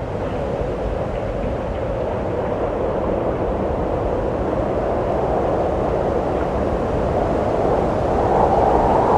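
Wind blowing as a steady noise, growing a little louder near the end.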